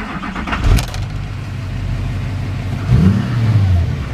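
6.6-litre Duramax LMM V8 turbodiesel starting up: it catches with a loud burst about 0.7 s in and settles into a steady idle. About 3 s in it revs briefly and then holds at a slightly higher speed.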